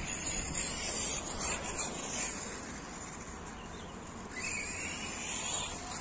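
Distant high whine of an electric radio-controlled car's motor and gearing, rising and falling as it drives, over steady outdoor background noise.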